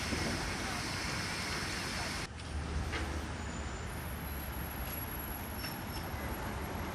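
Steady vehicle and traffic noise with a low rumble; the sound changes abruptly about two seconds in.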